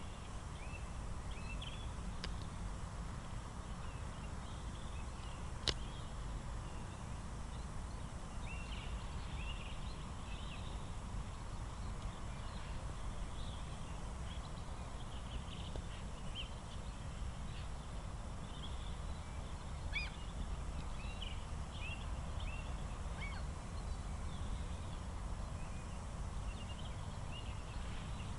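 Many birds calling in short, scattered chirps over a steady low rumble of outdoor background noise.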